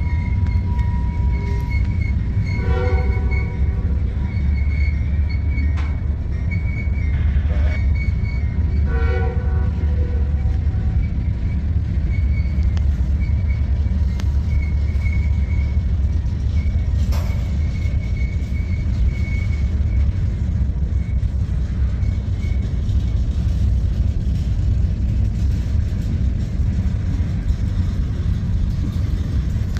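Freight train's covered hopper cars rolling past: a steady low rumble of steel wheels on rail, with a faint high squeal coming and going. Two short horn notes sound about 3 and 9 seconds in.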